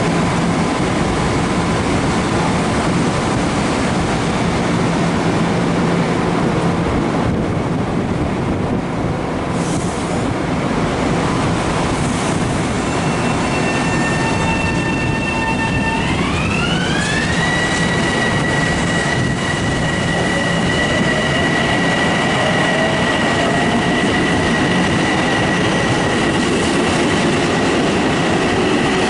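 Long Island Rail Road electric multiple-unit train pulling out, with steady wheel and rail noise. About halfway through, a set of high whining tones rises in pitch and then holds steady: the electric traction drive's whine as the train accelerates.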